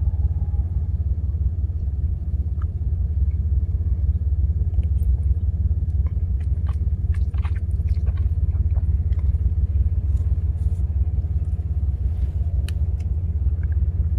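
Steady low rumble of a truck heard from inside the cab, with scattered faint small clicks and taps over it.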